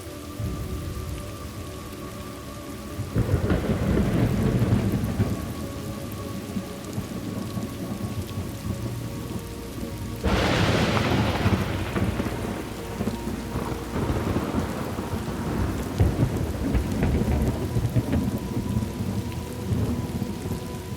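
Steady rain with thunder: a rolling rumble swells up about three seconds in, then a sharper crack about ten seconds in rumbles on for several seconds.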